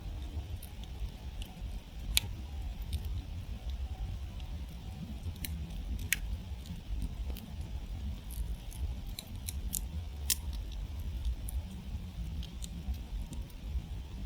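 Wood campfire crackling: scattered sharp pops and snaps, the loudest about two seconds in, over a steady low rumble.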